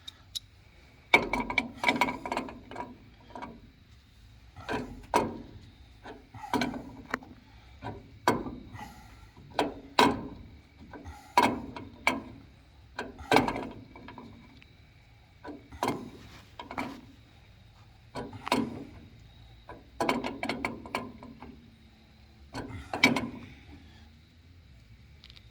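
A wrench tightening a threaded MPT-to-PEX adapter into the boiler pump plumbing: a series of short clicking metal strokes, about one every second and a half, each with a brief metallic ring.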